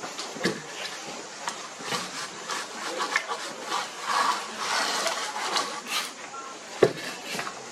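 Masons' hand tools working cement and brick: repeated short scrapes and taps, with one sharp knock near the end.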